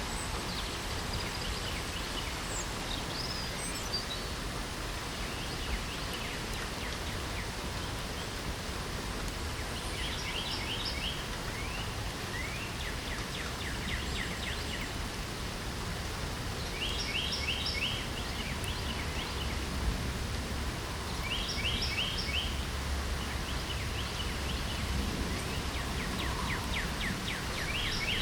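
Steady rain hiss with a low rumble underneath, and a songbird singing a short phrase of rapid repeated notes every few seconds, with a few scattered single chirps.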